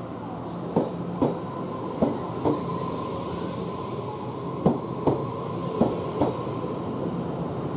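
Taroko Express TEMU1000 tilting electric train rolling slowly through a station, its wheels clicking over the rail joints in pairs as each bogie passes, over a steady rumble and a faint high hum.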